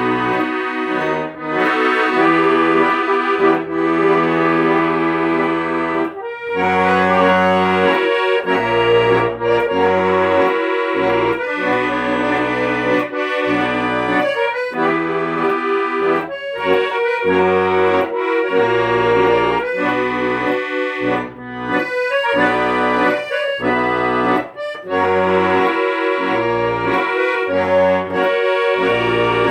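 Accordion playing a tune, melody and chords held over low bass notes that pulse in a steady rhythm.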